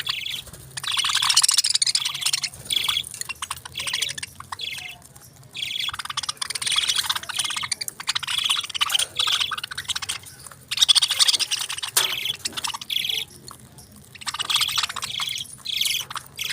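Pet parakeets chirping in quick, busy bouts of a second or two, with short pauses between them.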